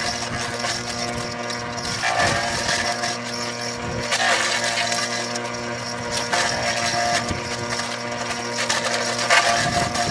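Trapp forage chopper running with an abnormal mechanical noise from its motor: a steady hum overlaid with rattling and irregular knocks, the fault the owner is showing.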